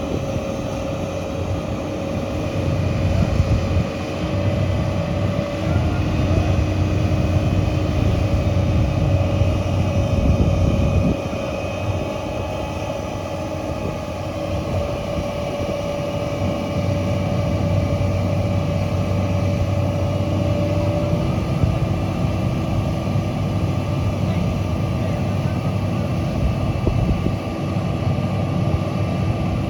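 Diesel engine of a heavy earthmoving machine running steadily under load, with a low rumble and a steady whine over it, its level swelling and easing a few times as it works.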